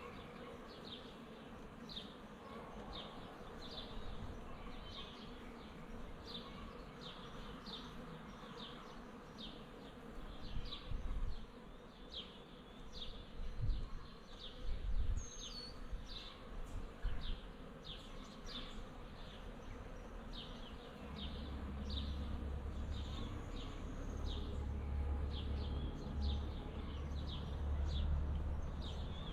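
Honeybees buzzing, with a short high chirp repeating a little more than once a second. Low thumps come near the middle, and a low rumble fills the last third.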